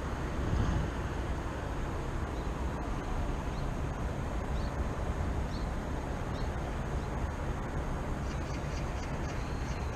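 Steady low rumble of distant city traffic, with a few faint short bird chirps spaced about a second apart and a patch of faint high chirping near the end.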